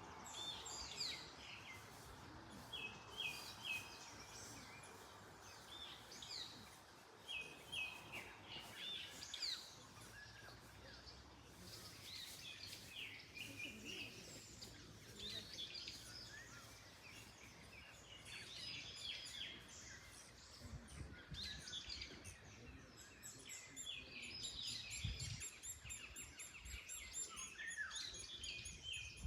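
Several wild birds chirping and singing, with short notes, trills and little groups of repeated notes overlapping one another, over a soft, steady wind hiss.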